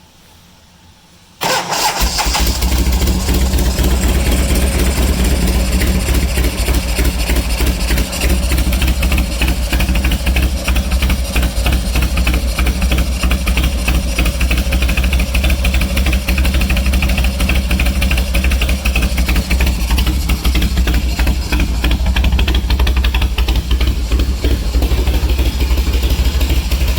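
Freshly rebuilt Harley-Davidson Shovelhead V-twin engine catching about a second and a half in and then running steadily at a fast idle, loud, on one of its first start-ups after the rebuild.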